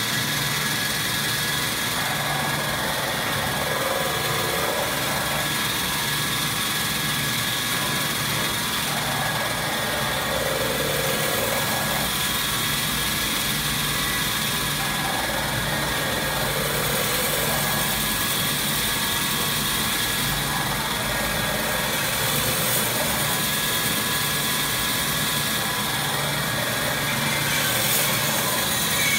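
Semi-automatic band saw cutter for maxi toilet paper rolls running. A steady machine whine sits over a low hum that pulses on and off, and a pattern repeats every few seconds.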